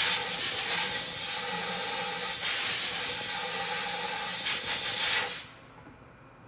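Loud, steady hissing rush that cuts off suddenly about five and a half seconds in.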